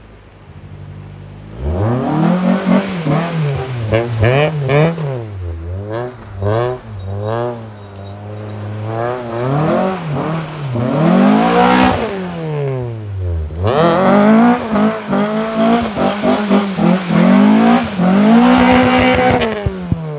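Honda K24 inline-four engine in a K-swapped all-wheel-drive Honda CR-V, idling, then revved hard about two seconds in, its pitch climbing and falling again and again. The revs drop right down briefly a little past halfway before climbing again.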